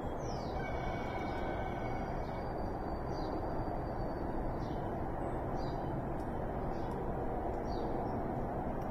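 Wild birds calling: a high down-slurred note at the start, then held whistles and short chirps every second or so, over a steady low background rush.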